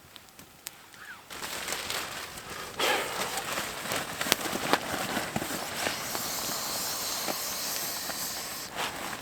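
Campfire burning, crackling with sharp pops and hissing. It starts up about a second in and grows louder, with a steady high hiss over the last few seconds.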